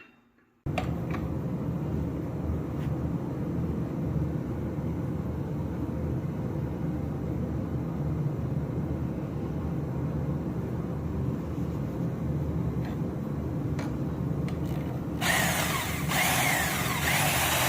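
Power saw cutting steel bar stock: a steady running noise that starts about a second in, turns louder and harsher near the end, then cuts off suddenly.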